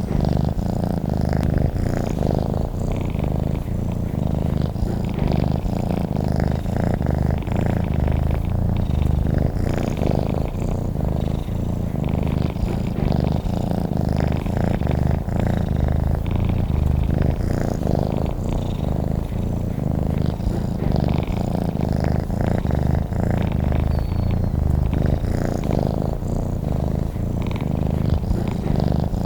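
Domestic cat purring steadily and continuously, a low, even purr.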